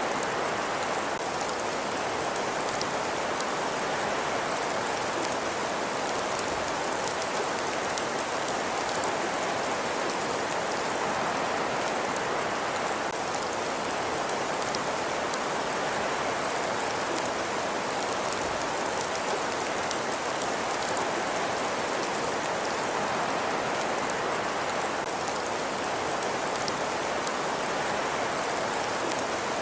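Steady ambience of a wood fire crackling in a fireplace: an even hiss with many small, quick crackles and pops scattered throughout, unchanging in level.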